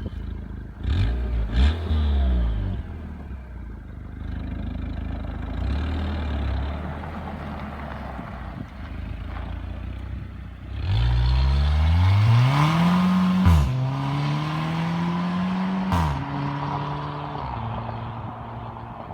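Audi A5 engine with a custom exhaust, idling and revved: a short blip about a second in, then near the middle a longer rev that climbs, is held high for a few seconds and drops back to idle. Sharp cracks sound from the exhaust as the revs drop.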